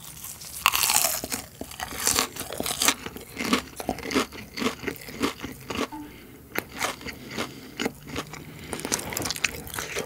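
Close-miked mouth sounds of a bite into a piece of crisp-coated boneless fried chicken, followed by crunchy chewing. The crunching is loudest a second or so after the bite, then settles into regular chewing crunches that grow louder again near the end.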